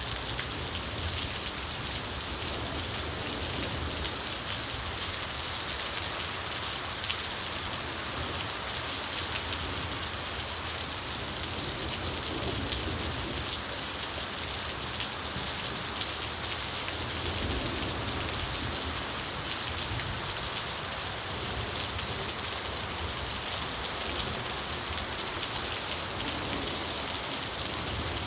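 Steady rain falling on surfaces, a dense, even patter of drops.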